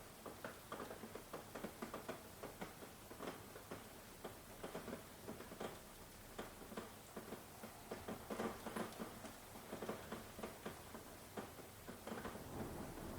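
Rain falling in irregular drops, tapping and pattering unevenly over a soft hiss. A low rumble builds near the end.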